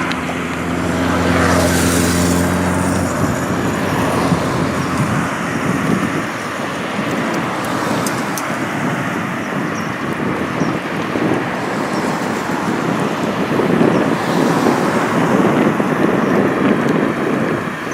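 Road traffic noise: a motor vehicle's steady engine hum for about the first three seconds, then a continuous rush of tyre and wind noise that swells louder later on.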